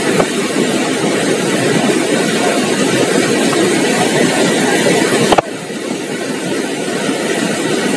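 A loud, steady rushing noise that cuts sharply about five seconds in and carries on at a lower level.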